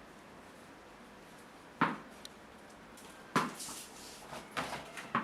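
Four sharp knocks and clatters, the first about two seconds in and the rest close together near the end, one followed by a brief rustle.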